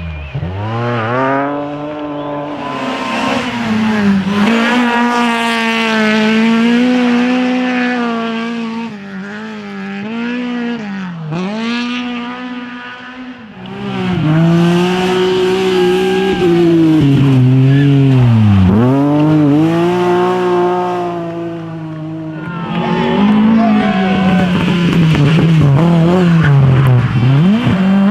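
Drift car engine revving hard, its pitch repeatedly dropping and climbing again as the driver lifts and gets back on the throttle, with tyre squeal as the car slides. It eases off briefly about ten seconds in, then comes back louder.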